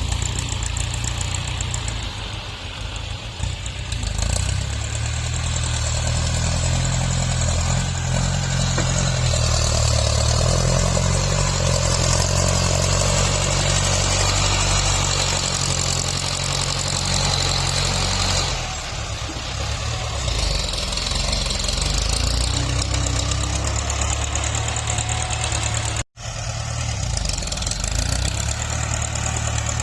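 Tractor engine working while grading soil. It runs harder from about four seconds in and eases back near eighteen seconds, with a brief break in the sound near the end.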